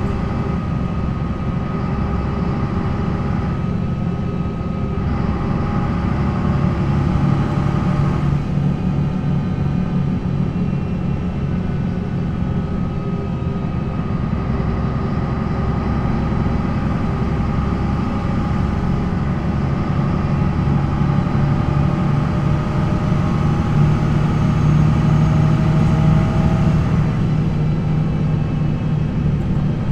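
MAN NL 263 bus's D28 inline-six diesel running, a steady engine drone with whining tones from the ZF Ecomat automatic gearbox. About 21 s in a whine climbs slowly in pitch as the sound grows a little louder, then breaks off about 27 s in as it eases.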